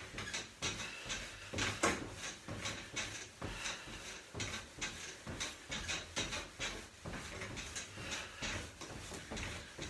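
Small trampoline squeaking and creaking under someone running in place on it, a steady rhythm of about two strokes a second.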